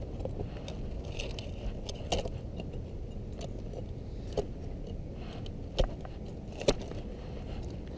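Hand work removing old caulking from a chimney's roof joint: a few sharp clicks and scrapes, spaced a second or two apart, over a steady low rumble.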